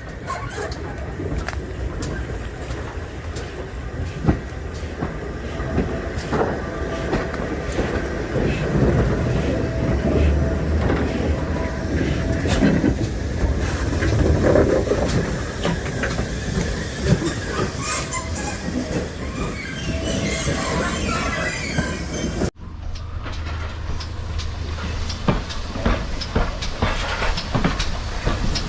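A railway train running on the track, its wheels clicking over the rail joints, with a steady rumble beneath. The sound breaks off abruptly about three-quarters of the way through and resumes at once.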